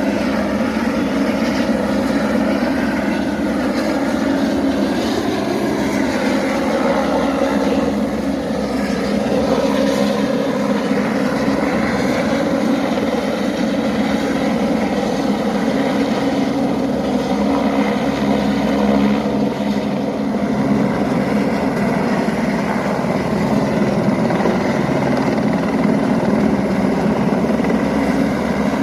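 Helicopter engine and rotor running continuously, a dense drone whose pitch shifts slightly now and then.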